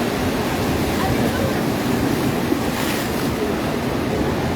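Atlantic surf breaking and washing on the beach, a steady rushing noise, with wind on the microphone; a brighter hiss rises briefly about three seconds in.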